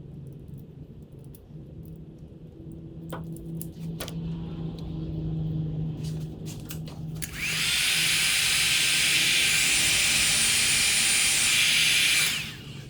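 A small electric power tool or blower runs steadily for about five seconds with a loud hiss and a faint whine, switching on and off sharply, after a few quiet handling clicks.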